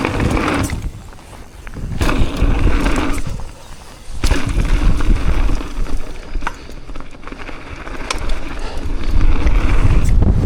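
Mountain bike riding down a dirt trail: tyres rolling over the ground with frequent knocks and rattles from the bike over bumps, and wind buffeting the microphone with a heavy low rumble.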